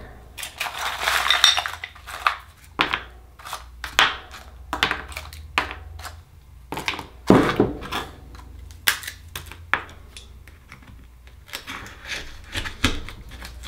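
Irregular clinks, clacks and short scrapes of hard shells and a metal tool: Akoya oysters being picked up and pried open with a knife.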